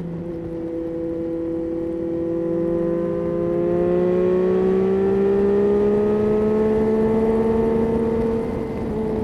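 Yamaha Tracer 9's three-cylinder engine pulling under steady acceleration, its pitch rising slowly for most of the stretch, then easing off near the end.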